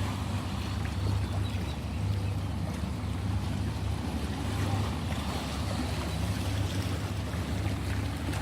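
Ocean waves washing in a continuous surf hiss over a steady low rumble.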